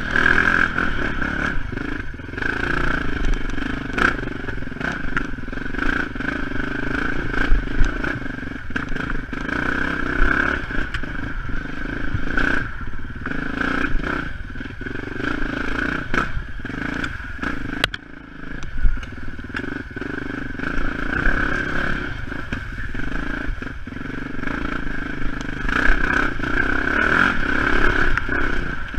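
Dirt bike engine running as the bike is ridden along a rough trail, its level falling off briefly several times and picking up again.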